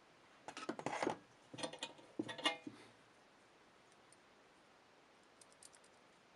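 Clicking and clattering of small hard parts being handled while an old scale is taken apart. Three short bursts come in the first three seconds, then a few faint clicks near the end.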